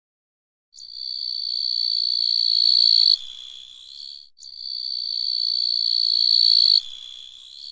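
Grasshopper singing: a high, steady buzz that swells for about two and a half seconds, then drops suddenly to a quieter buzz that trails off. The same call comes twice, the second an exact repeat of the first.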